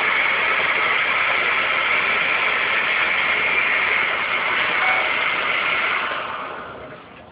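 Electric blender motor running steadily while blending a shake, then winding down and stopping near the end.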